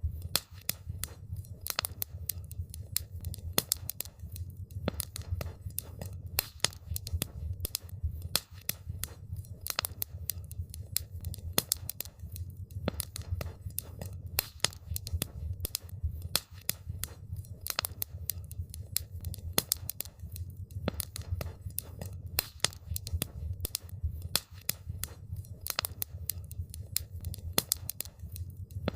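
Wood campfire crackling, with many irregular sharp snaps and pops over a steady low rumble.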